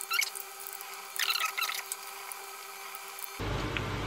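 Two short bursts of clicking and scraping as falafel mix is worked off metal spoons into hot oil, the second about a second and a half in. Near the end, a steady sizzle of falafel balls deep-frying in oil.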